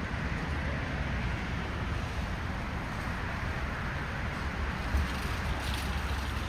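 Steady outdoor background noise: a low rumble with an even hiss over it, and a short thump about five seconds in.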